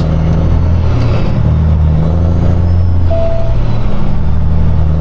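Semi-truck's diesel engine running steadily under way, a loud low drone. A short single beep sounds a little past halfway.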